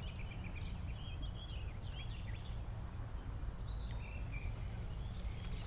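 Several small birds chirping and calling on and off over a low, steady background rumble.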